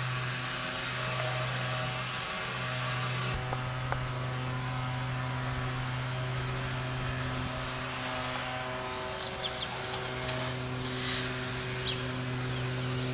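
An engine idling steadily, a low even drone. Birds chirp a few times near the end.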